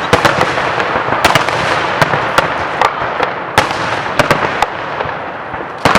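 Aerial fireworks display: a rapid, irregular series of sharp bangs and pops, several a second, over a continuous crackling hiss.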